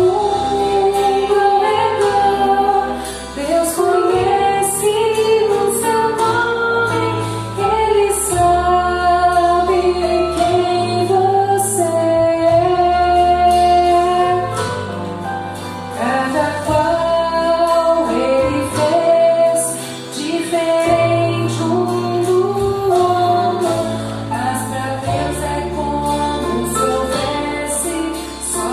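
A song with a female voice singing a melody over instrumental accompaniment and a stepping bass line.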